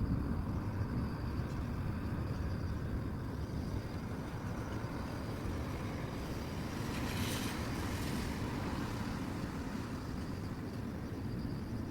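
Grass insects chirping in a faint, pulsing high trill over a steady low rumble. About seven seconds in, a brief hiss swells up and fades.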